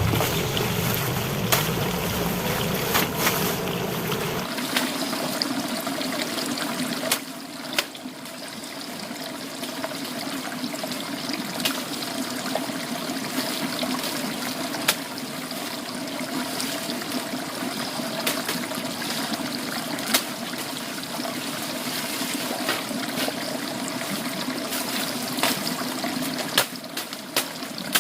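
Steady trickling and splashing of water, with scattered sharp clicks throughout. A low rumble underneath stops about four and a half seconds in.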